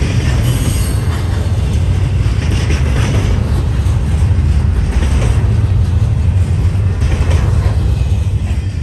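Double-stack intermodal container train of well cars rolling past: a steady, loud rumble and rattle of steel wheels on rail, dying away as the last car goes by near the end.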